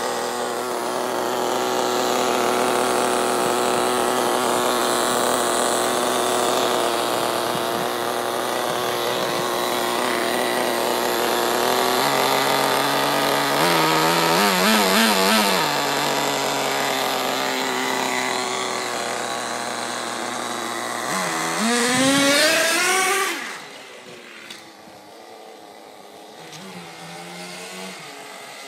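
Small nitro (glow-fuel) engine of an RC monster truck running at a steady idle, blipped up and down a few times midway, then revved hard in a rising whine a little past twenty seconds in. After that it drops much fainter for the last few seconds.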